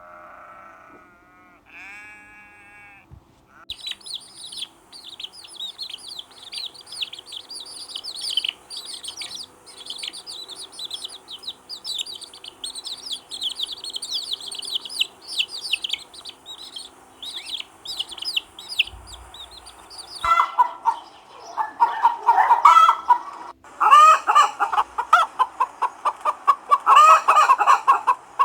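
Chickens: a long run of quick, high chirping, then from about two-thirds of the way through, loud rapid clucking.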